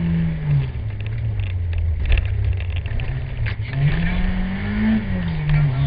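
Renault Clio 1.8 16V rally car's four-cylinder engine heard from inside the cabin. It drops off about half a second in and runs lower for about three seconds, then revs up hard, dips briefly and climbs again near the end. There are a couple of short knocks along the way.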